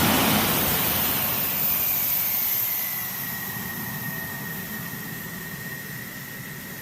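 F-16 fighter jet's engine: a loud rush that fades over several seconds, while a high whine slides down in pitch and then holds steady.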